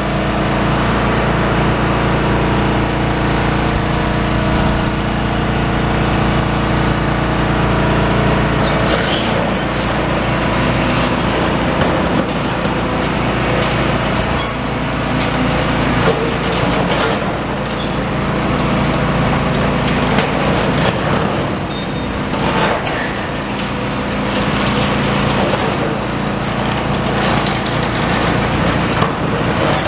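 Demolition excavator's diesel engine running under load as its crusher jaws (the 'chomper') bite a slab of concrete flooring in half. From about nine seconds in there are irregular cracks and crunches of breaking concrete.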